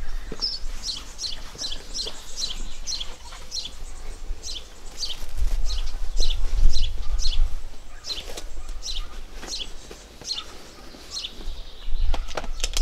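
A bird calling over and over in short, high chirps that slide downward in pitch, a few a second, stopping near the end. A low rumble runs underneath and swells in the middle.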